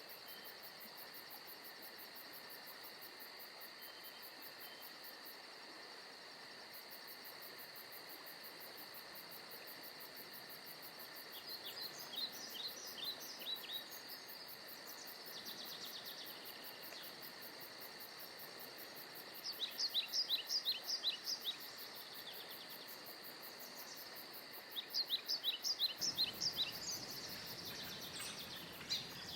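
Forest ambience: a steady, faint high-pitched insect trilling, with a songbird singing three phrases of quick, repeated descending notes, about halfway in, about two-thirds in, and near the end.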